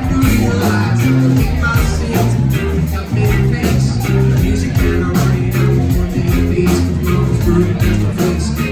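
Live band playing: electric guitar and bass guitar over drums keeping a steady beat.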